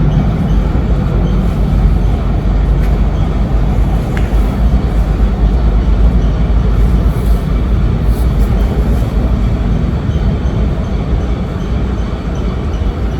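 Train running on the tracks at a station, a loud steady rumble.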